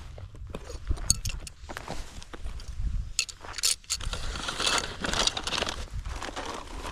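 Camping gear being handled and packed: scattered clinks and knocks, then a stretch of rustling and scraping from about four seconds in.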